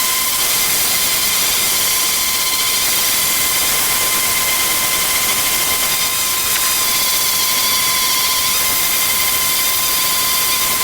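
Power tool running steadily: a loud hiss with a high, even whine through it, cutting off suddenly at the end.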